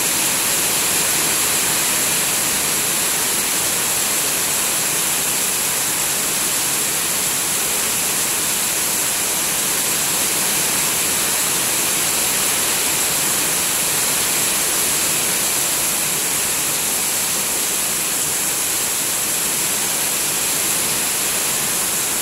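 Heavy rain falling steadily onto a pond and garden plants: an even, unbroken hiss.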